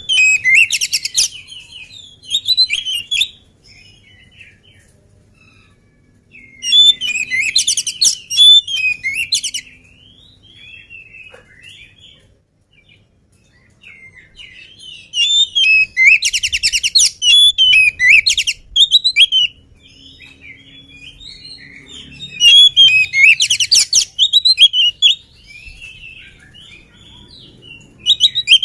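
Oriental magpie-robin (kacer) singing hard in loud bouts every several seconds: varied whistled phrases mixed with fast, harsh chattering rattles, with softer chirps and whistles between bouts.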